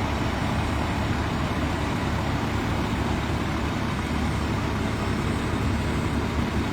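Steady low rumble of heavy diesel construction equipment running during a concrete pour, with no distinct events.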